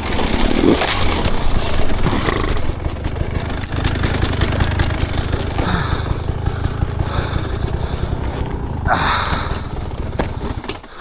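Dirt bike engine running with throttle blips on rough ground as the bike gets away from the rider, dropping off near the end.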